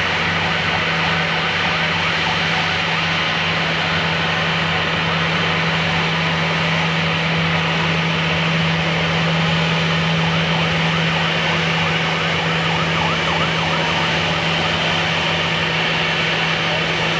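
Airport fire trucks running their water pumps for a water-arch salute: a steady loud engine drone under an even hiss of spraying water.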